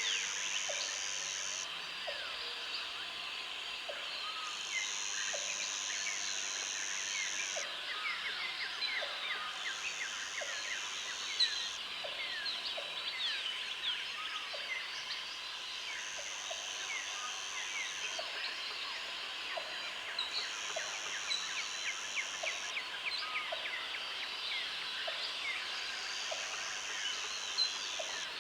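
Countryside ambience of many birds chirping together in short, quick calls, with a high, steady buzz that comes and goes in bouts of two to three seconds, about six times.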